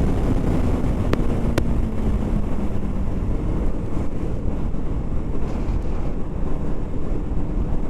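BMW G 310 RR single-cylinder engine running as the bike rides, under heavy wind rush on the helmet microphone. The engine note eases down over the first couple of seconds, and two sharp clicks come about a second and a second and a half in.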